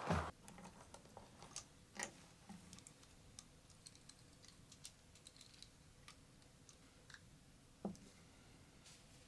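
A door thuds shut, abruptly cutting off the outdoor wind noise. Then quiet room tone with scattered small clicks and a couple of soft knocks, about two seconds in and near the end, as things are handled.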